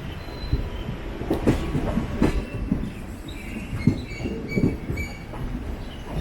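Wheels of a DEMU train clattering over the points as it crosses from the loop line onto the main line. Several heavy knocks and brief wheel squeals ride over the train's steady rumble.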